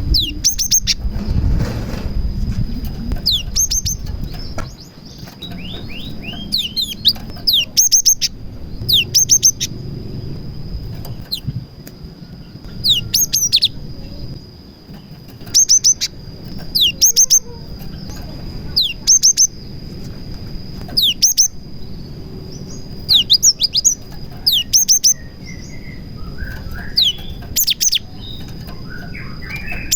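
Cinereous tit (gelatik batu) singing: repeated clusters of three or four quick, falling whistled notes, a song filled with bar-winged prinia (prenjak) phrases. A faint steady high whine runs underneath.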